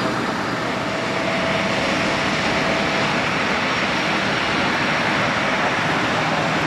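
Bombardier Challenger 605 business jet's two GE CF34 turbofan engines running: a steady rushing jet noise with a faint thin whine over it.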